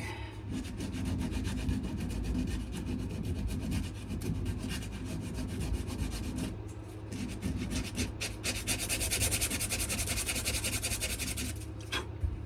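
Sandpaper rubbed back and forth in quick, even strokes over a wooden knife handle, scratching harder and brighter for a few seconds near the end. A steady low hum runs underneath.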